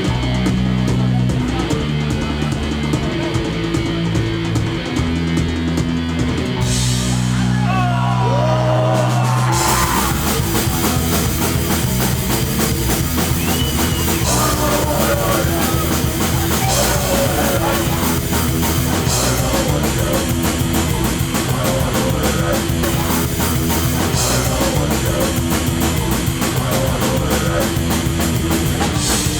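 Live hardcore punk band playing loudly. It opens on a bare, heavy low riff, and the full band with drums and crashing cymbals comes in about ten seconds in.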